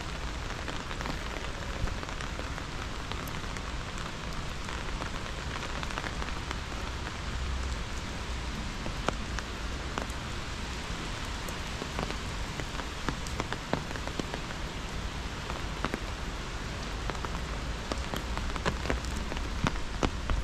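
Steady rain falling, with many individual drops ticking sharply on a surface, over a low rumble.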